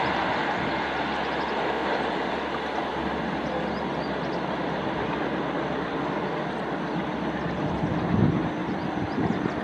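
Express passenger train's coaches running away on the rails: a steady rumble and rush of wheels on track, slowly getting quieter as the train recedes.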